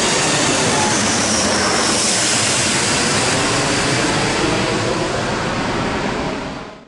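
Jet engines of a Citilink Airbus A330 running at high power as the airliner passes, a loud steady rush with thin whining tones that fall in pitch early on. The sound fades out quickly near the end.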